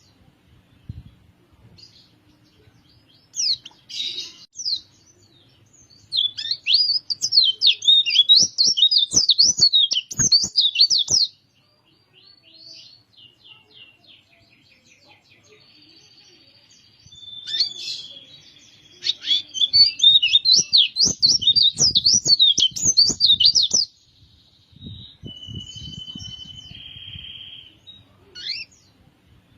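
A pleci (white-eye) of the Bali Kintamani 'dakun' type singing: two long bursts of rapid, high, twittering song about five seconds each, with short chirps between them and a thin steady whistle near the end.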